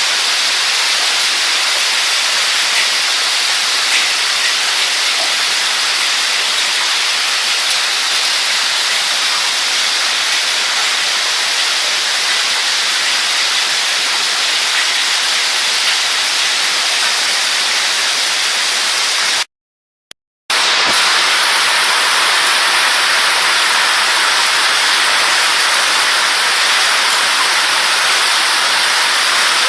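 Hailstorm: hail and heavy rain coming down in a dense, steady hiss. It cuts out for about a second some twenty seconds in, then carries on.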